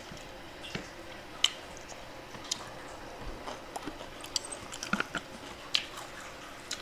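A person chewing a mouthful of food close to the microphone: scattered short wet smacks and clicks of the mouth, coming more often near the end.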